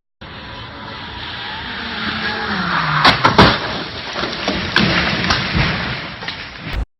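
Car engine and road noise building up, then a collision: a cluster of loud, sharp impacts about three seconds in, followed by a few smaller knocks.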